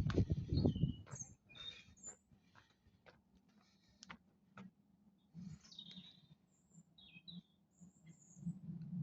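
Small birds chirping in short high calls, a few at a time, over soft thumps and rustling that are loudest in the first second.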